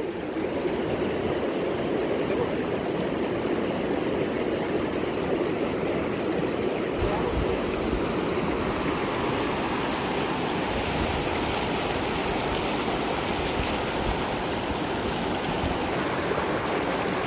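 Mountain valley stream rushing over rocks: a steady, even rush of flowing water.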